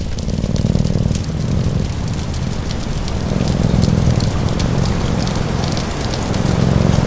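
Steady rain with the sharp pops and crackles of a wood fire, over a low cat purr that swells and fades about every three seconds with its breathing.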